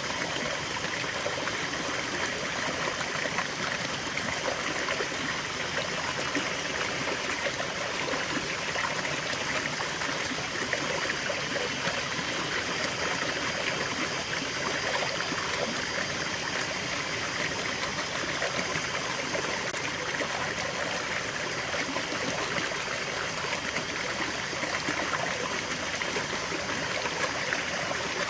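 Small stream flowing and trickling steadily, a constant babble of water.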